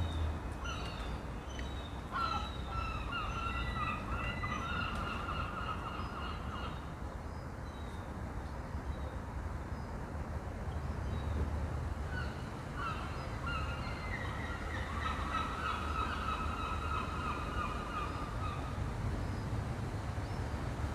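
Birds calling in two bouts of repeated pitched calls, one about two seconds in and one in the second half, over a steady low rumble.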